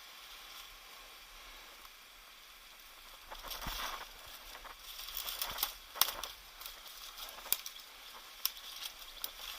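Faint steady hiss, then from about three seconds in irregular crunching and crackling with a few sharp clicks.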